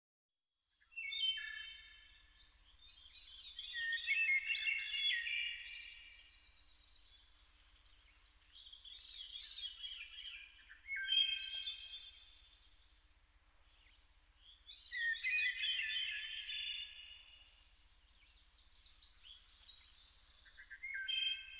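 Songbirds singing: bursts of fast, twittering song every few seconds, with quieter gaps between.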